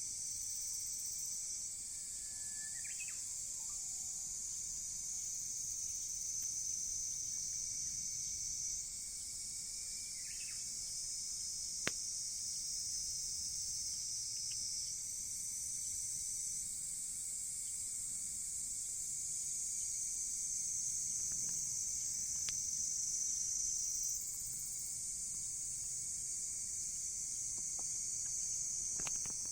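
A steady, high-pitched chorus of insects that shifts in pitch now and then, with a few sharp pops from the driftwood fire and a couple of short chirps.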